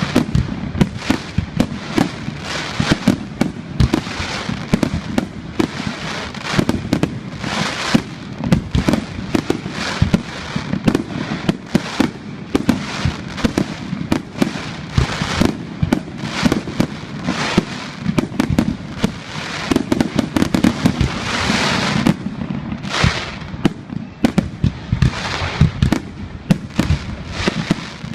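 Aerial fireworks going off in a dense, continuous barrage: rapid bangs several times a second mixed with hissing crackle.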